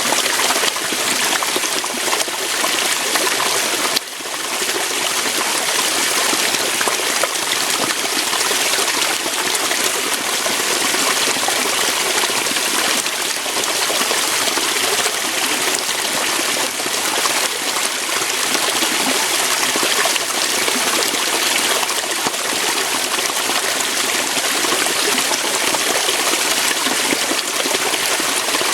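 Waterfall: water flowing over rocks with a steady, even rush. The sound dips briefly about four seconds in, then returns to full level.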